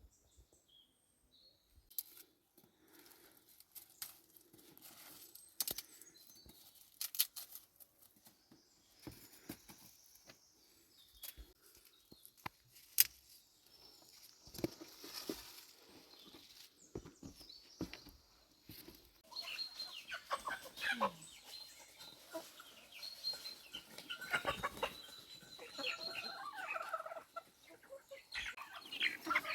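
Chickens clucking, busiest in the second half. Before that comes a scattering of sharp clicks and knocks.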